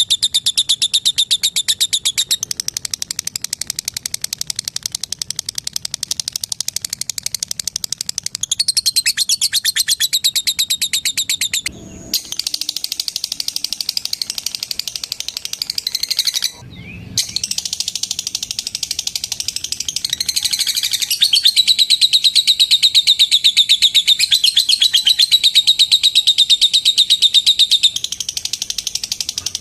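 Lovebirds, a female among them, giving the long, fast, high rattling chatter that keepers call "ngekek". It is a continuous run of rapid chirps, with two short breaks around twelve and seventeen seconds in, and grows louder in the last third.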